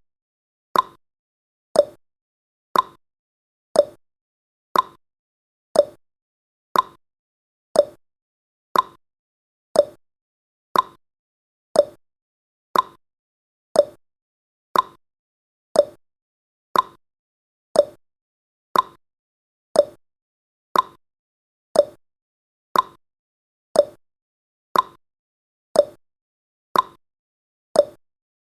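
Countdown timer's tick sound effect: a short, knock-like click once every second, each dying away quickly, in a steady, unchanging rhythm.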